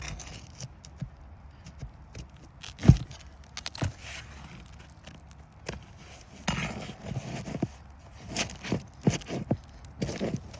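Hand tools working nails loose from asphalt shingles: irregular metal clicks and knocks, the sharpest about three seconds in, with a stretch of scraping about six to seven and a half seconds in.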